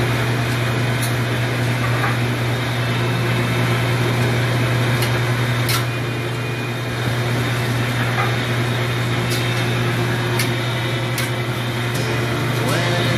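Steady low hum of a ship's machinery, with a few faint sharp ticks over it.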